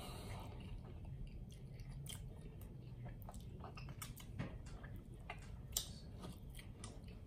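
A person chewing a cheeseburger with the mouth closed, close to the microphone: soft wet clicks and smacks. Two sharper smacks stand out, one about four seconds in as a thumb is sucked clean.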